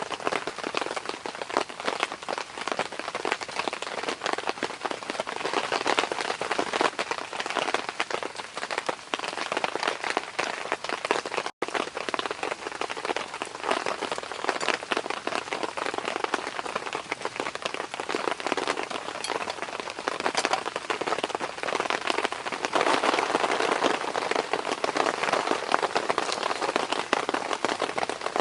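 Steady rain falling, a dense patter of countless drops hitting surfaces. It drops out for an instant about a third of the way in and grows a little heavier in the last few seconds.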